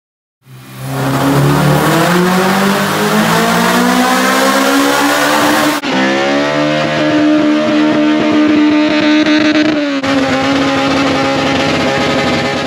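Car engines revving hard in three back-to-back clips. The first climbs steadily in pitch for about five seconds. After sudden cuts, the second is held at high revs and the third holds a steady, slightly lower note, as in burnouts.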